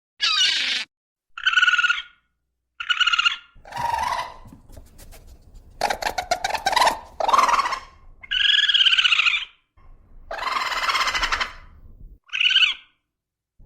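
A series of separate animal calls and cries, each lasting about half a second to a second and a half, with short silent gaps between them; the two calls near the start sound alike.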